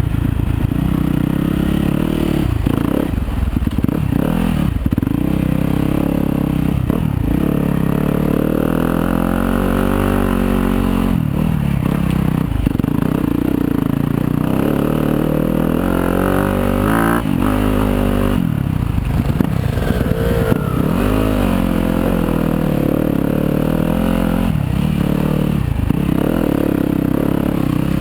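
Yamaha YZ250FX dirt bike's 250 cc four-stroke single-cylinder engine running on a trail ride. Its revs rise and fall over and over with the throttle.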